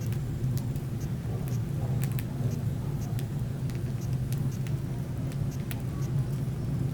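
Wood fire burning in a fireplace: irregular sharp crackles and snaps a few times a second over a steady low rumble.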